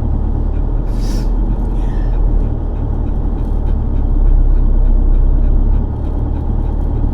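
Steady low road and engine rumble inside a moving car's cabin, with a brief hiss about a second in.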